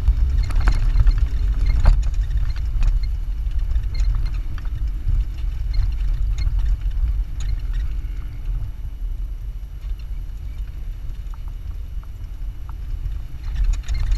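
Jeep driving over sand dunes, heard from on board: a steady low rumble with scattered light rattles and clicks.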